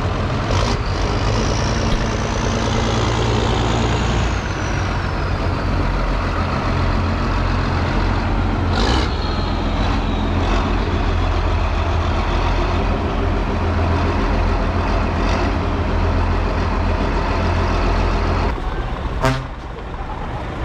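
John Deere 6R 175 tractor's diesel engine running steadily under way, a low drone, with a high whine that falls in pitch a few seconds in and a few sharp clicks.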